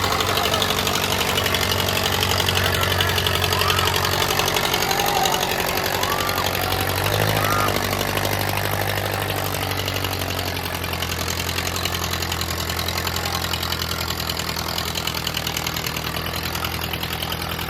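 Tractor's diesel engine running with a steady knocking clatter; its note shifts about seven seconds in, then runs evenly.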